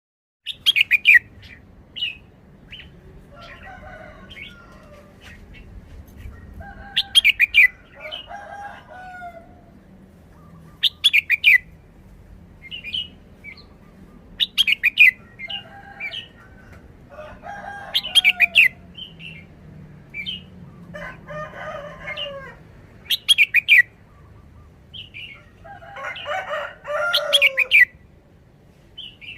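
Red-whiskered bulbul singing short, bright song phrases that repeat about every four seconds, with softer warbling notes between them.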